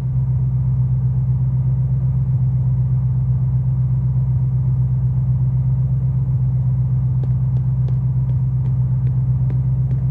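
Muscle car engine running with a steady low rumble, with a few faint ticks in the last few seconds.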